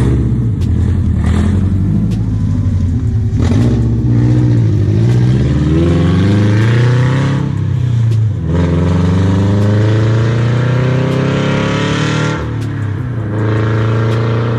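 Scion FR-S flat-four running with no cat-back exhaust, dumping open after unequal-length headers and the stock front pipe. It is very loud and revs up twice, the pitch climbing, dropping off sharply about eight seconds in, then climbing again before it falls back.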